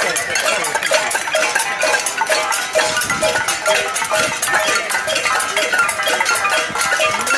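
Many pots and pans being banged and rattled together by a crowd: a dense, unbroken metallic clatter with ringing clangs.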